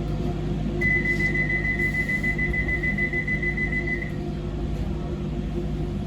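Docklands Light Railway train's door-closing warning tone: one high steady beep lasting about three seconds, signalling that the doors are about to close before departure, over the low hum of the stationary train.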